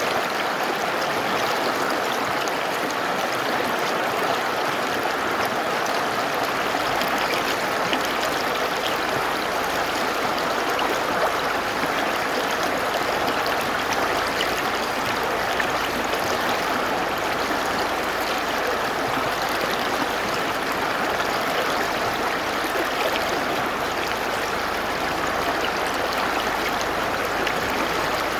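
Mountain river rushing over rocks: a steady, even water noise without pause.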